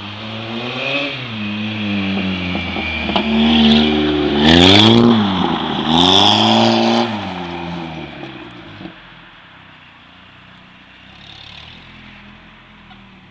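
Opel Vectra's tuned exhaust as the engine is revved up and down several times, loudest about five to seven seconds in. After about eight seconds it drops away to a low steady engine sound.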